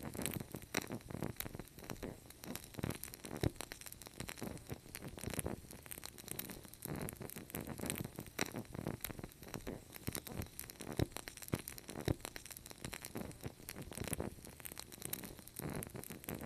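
Wood fire crackling in a fireplace: irregular snaps and pops over a soft low rumble of burning, with a few sharper pops standing out.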